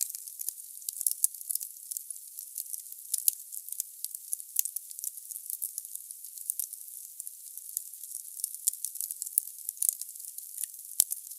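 Wood fire crackling in a fireplace: dense, irregular pops and snaps over a soft, high hiss, with no low roar of flame. One sharper snap comes near the end.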